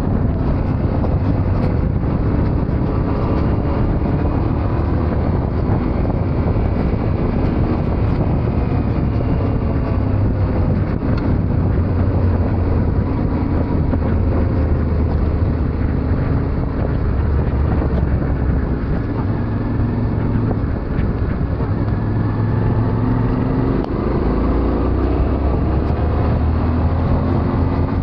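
Yamaha Ténéré 700's parallel-twin engine running under way, its pitch rising and falling with the throttle.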